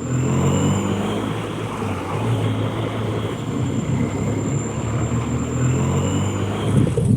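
A motorcycle engine running steadily, its pitch rising and falling slightly.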